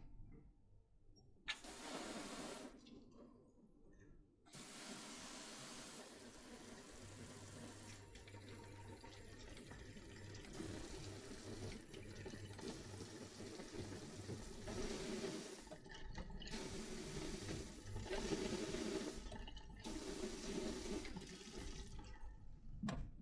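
Water running from a tap into a sink, turned on, briefly stopped, then left running with a few short breaks, ending with a click near the end.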